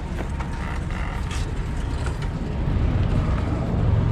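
Harley-Davidson V-twin motorcycle engine running with a deep, dense rumble that grows louder about three seconds in.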